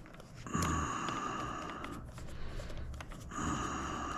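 A person breathing audibly, two long breaths each about a second and a half long.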